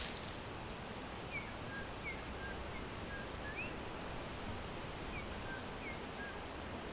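Small birds chirping in forest ambience: short high chirps, some flat and some falling, come about two a second with a pause near the middle, over a steady background hiss.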